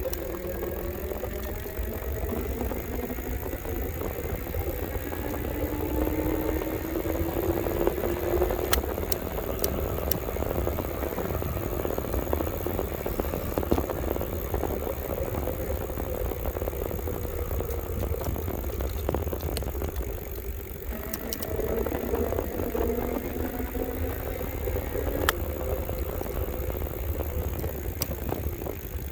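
Electric bike riding: the motor's whine rises in pitch as the bike picks up speed, near the start and again about two-thirds of the way in, over a steady rumble of wind and tyres with occasional clicks and rattles.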